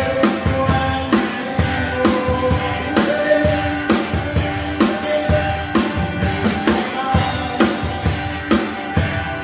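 Acoustic drum kit playing a steady groove, with regular bass drum and snare hits, over a song with sustained melodic parts.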